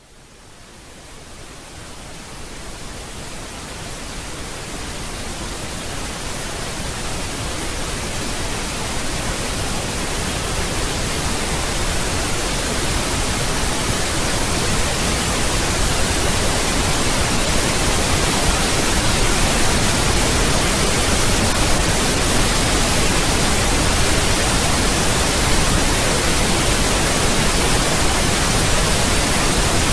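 Pink noise test signal played over a PA sound system during system tuning. It fades up gradually over about the first ten seconds and then holds steady.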